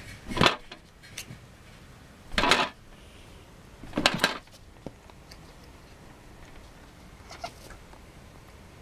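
A playing kitten making three short, sharp, noisy sounds about two seconds apart, with a few faint small clicks afterwards.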